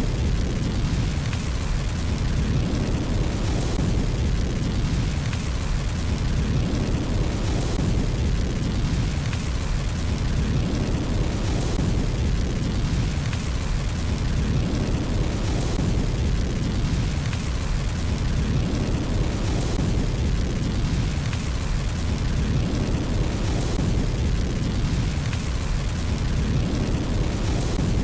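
Fire burning in a fireplace: a steady low roar with light crackles, in a pattern that repeats about every four seconds.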